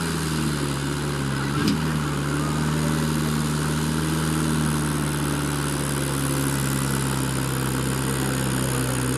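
Tractor diesel engine running steadily at an even speed, with one short click about a second and a half in.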